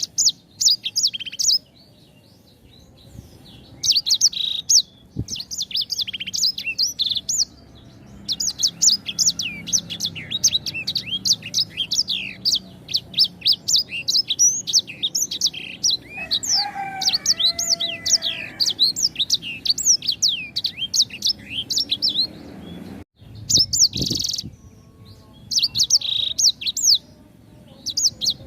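A sanger cage bird singing a fast, continuous string of high, sharp chirps and twitters, with a couple of short pauses and a lower warbled phrase about two-thirds of the way through. This is a 'gacor' tutor song used to train other songbirds.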